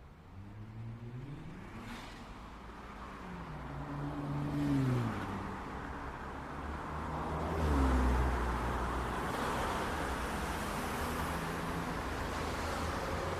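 City street traffic: car engines accelerating and passing one after another, their pitch rising and then falling. A loud low rumble from a passing vehicle comes about eight seconds in, followed by a steady wash of traffic and tyre noise.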